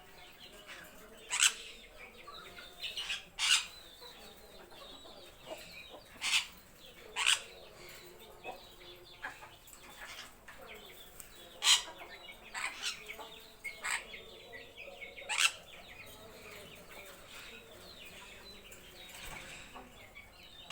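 Parrots giving short, sharp squawks, about a dozen scattered irregularly and heard singly or in quick pairs, over a faint steady background.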